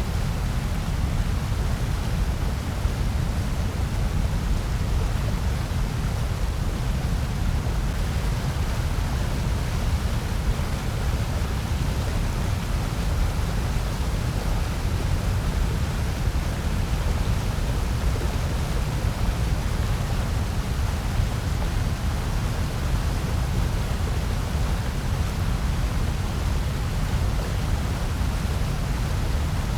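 Steady, electronically generated noise, billed as white noise. A strong deep rumble lies under a softer, even hiss, with no change in level.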